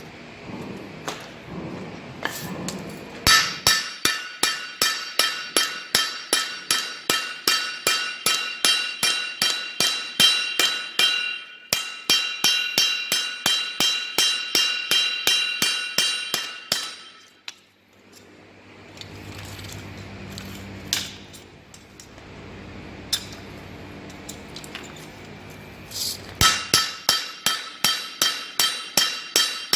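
Hammer striking steel on an anvil while forging a bandsaw-blade damascus billet: an even run of blows, about three a second, each with a bright metallic ring. The blows stop partway through, leaving a low hum, then start again near the end.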